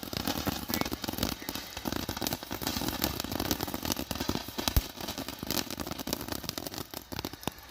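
Dense, steady crackling and popping, many small sharp cracks running together.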